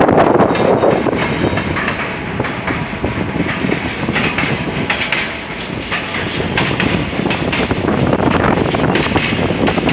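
A JR Freight freight train hauled by an EF210 electric locomotive rolling past, loud and steady, its wheels clicking and clattering over the rail joints.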